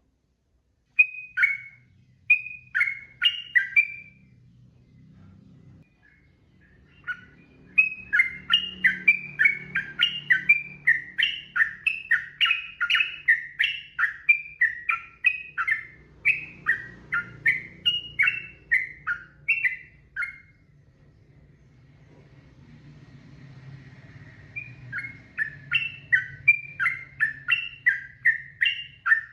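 Yellow-vented bulbul singing quick runs of short, repeated notes, several a second. A short burst comes first, a long run follows from about a quarter of the way in, and another run starts near the end. A faint low hum lies beneath.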